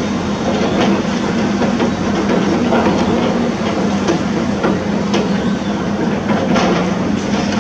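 Heavy construction machinery running with a steady drone, with irregular knocks and clanks of the work over it.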